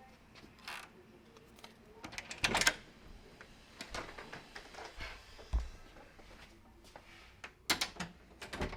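Scattered clicks, knocks and rustles of handling in a small room, the loudest a short clatter about two and a half seconds in and a run of clicks near the end.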